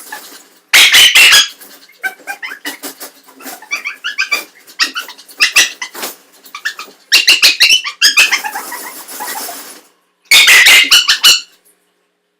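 Small maltipoo dog vocalizing in high-pitched yips and barks: three loud outbursts, about a second in, around seven seconds in and near the end, with rapid short yips between them.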